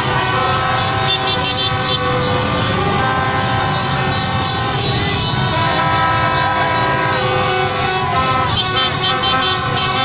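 Dense, continuous honking from many vehicle horns at once, overlapping at many different pitches, over the steady running of a mass of motorbike engines in a celebration convoy.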